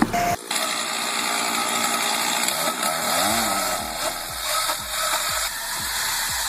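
Chainsaw running steadily, starting abruptly about half a second in.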